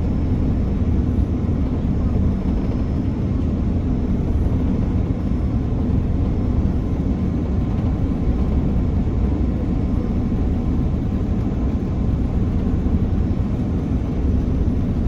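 Steady low rumble inside the cabin of an Airbus A330-300 airliner: engine and airflow noise, even throughout with no bumps or changes.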